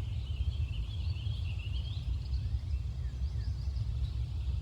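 Outdoor ambience: a steady low rumble with small birds singing faintly, their wavering high calls clearest in the first two seconds.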